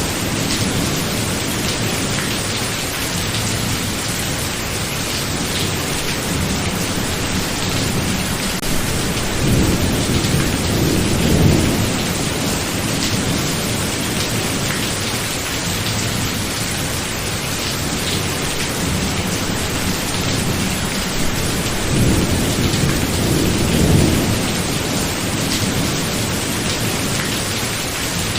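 Steady heavy rain in a thunderstorm, with low rolling thunder swelling up twice, about a third of the way through and again past two-thirds.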